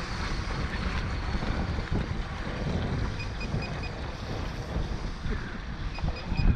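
Radio-controlled model power boats racing, their motors a faint high whine under heavy wind buffeting on the microphone.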